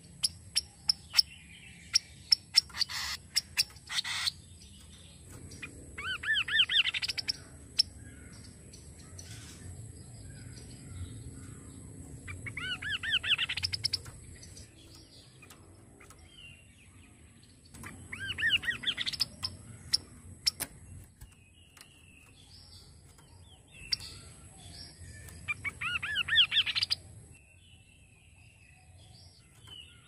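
Kaso-kaso bird singing: four trilled phrases of quickly repeated notes, each about one and a half seconds long, coming roughly every six seconds. A run of sharp ticks and clicks fills the first few seconds.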